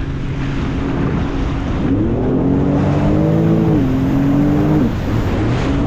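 Jet ski engine revving up about two seconds in, holding its pitch, then easing off and dropping away near five seconds, over a steady rush of wind and water. It picks up again briefly at the end.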